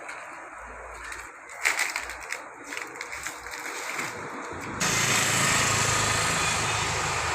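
A few scattered knocks, then about five seconds in an engine comes on suddenly and runs steadily.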